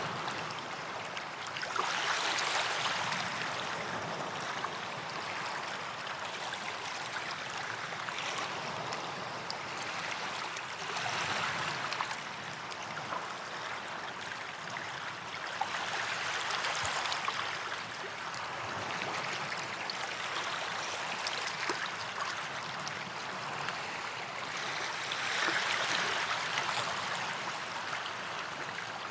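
Small waves washing onto a sandy beach and drawing back, a steady wash of surf that swells every few seconds.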